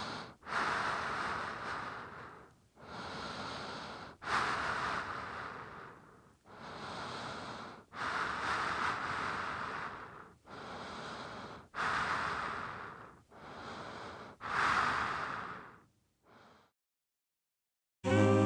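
A person breathing heavily close to the microphone: a run of loud, hissing breaths in and out, about a dozen of them, that stop shortly before the end.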